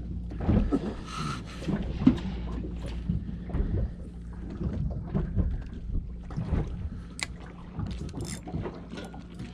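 Water slapping against a small fishing boat's hull, with irregular knocks and rattles of gear being handled on board and a few sharp clicks near the end, over a steady low hum.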